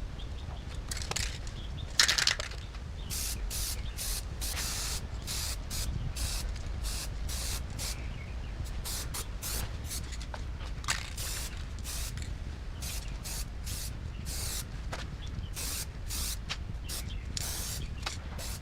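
Short hissing spray bursts, one after another at an uneven pace, over a steady low hum, with a louder burst about two seconds in.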